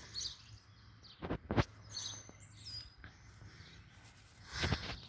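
A small bird chirps a few short high notes about two seconds in, over faint outdoor background noise. Two dull thumps come just before the chirps, and there is a rustle near the end.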